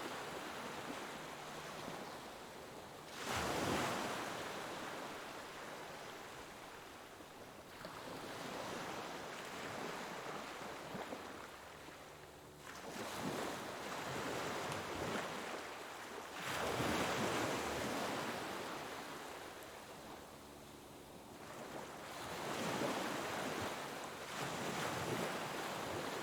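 Sea waves breaking and washing on a shore, each swell of surf rising and falling away in turn, with louder breakers about every four to six seconds.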